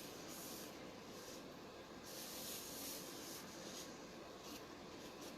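Faint rustling of cardstock being slid and pressed by hand as a glued panel is centred on a card; the rustle swells and fades, loudest about halfway through.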